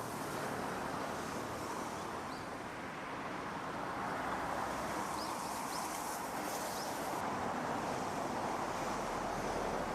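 Steady rush of flowing river water, with a few faint, short, high chirps near the middle.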